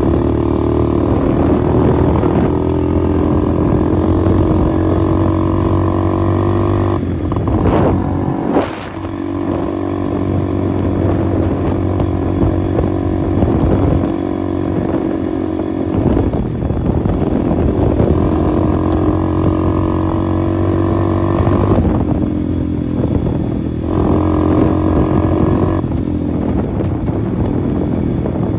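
125 cc pit bike's single-cylinder engine running under way, its pitch dropping and picking back up several times as the rider shifts or eases off the throttle.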